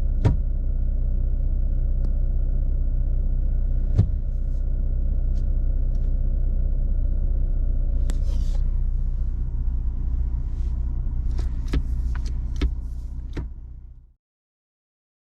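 Steady low rumble of a car running, with scattered sharp clicks and knocks. It fades out quickly about fourteen seconds in.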